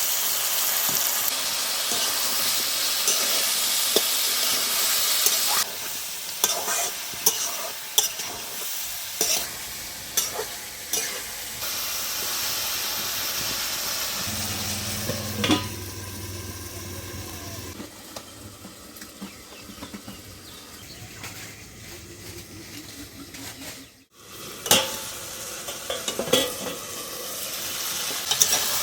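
Onion, tomato, ridge gourd and ground spices sizzling in hot oil in a kadai and being stirred, with repeated scrapes and clicks against the pan. The sizzle is loudest at first and quieter after about five seconds, briefly cutting out about three-quarters of the way in.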